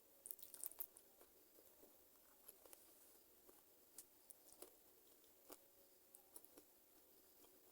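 Faint eating sounds from chewing chicken feet: small crisp clicks and crunches, a quick cluster about half a second in, then single sharp clicks every second or so.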